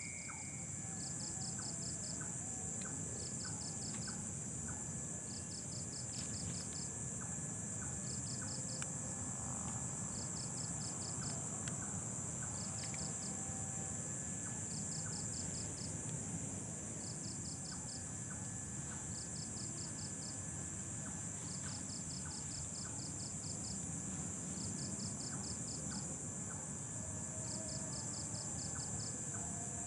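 Insect chorus: a steady high-pitched drone with a cricket's short trills of rapid pulses repeating every one to two seconds, over low background noise.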